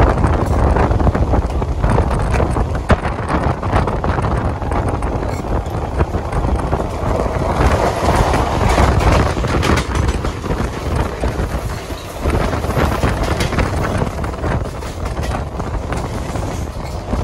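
Running noise of a moving Mumbai suburban electric local train heard from its open doorway, with wind on the microphone. About eight seconds in, another local train passes on the adjacent track, making the noise louder and brighter for three or four seconds.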